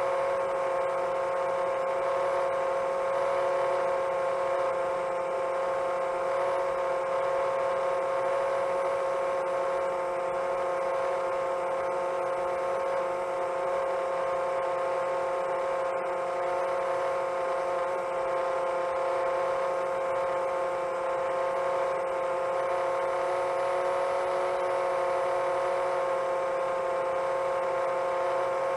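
A 7-inch long-range FPV quadcopter's motors and propellers whining steadily at cruise: a constant hum made of several close, steady tones that hardly change in pitch.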